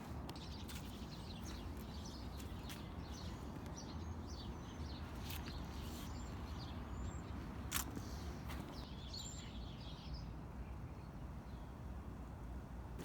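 Small birds chirping over a steady low outdoor rumble, with a few sharp clicks.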